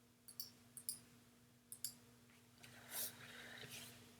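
Faint clicks of a computer mouse, several in quick pairs, as an image is edited in Photoshop; a soft airy rustle near the end.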